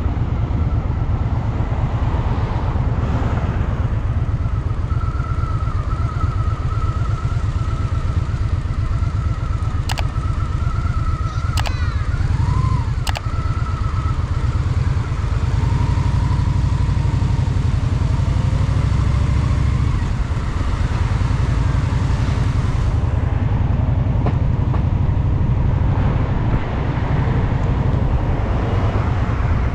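Honda Shadow VT750's V-twin engine running steadily as the motorcycle rides, low and even throughout. A thin high whine joins about five seconds in and lasts about ten seconds, with three short sharp clicks near its end.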